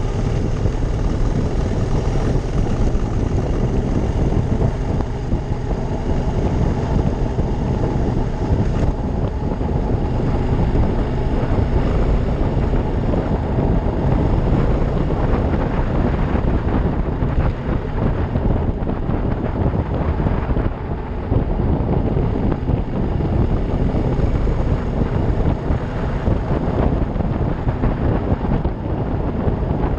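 Wind rushing over the microphone of a riding motorcycle, with the Ducati Monster 620's air-cooled V-twin engine running underneath, steady throughout.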